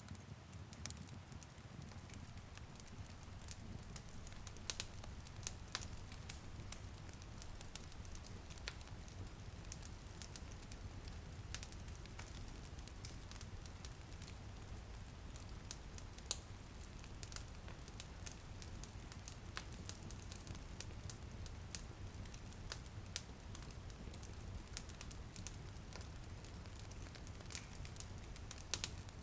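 Wood fire crackling in a fireplace, with irregular sharp pops over a steady low rumble, and light rain on a window.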